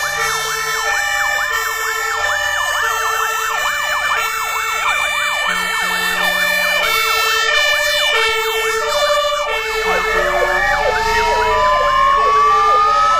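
Many fire engine sirens sounding together as the vehicles pass: several two-tone hi-lo sirens alternating in pitch, overlapping with fast warbling yelp sirens, and a slow rising wail starting about ten seconds in.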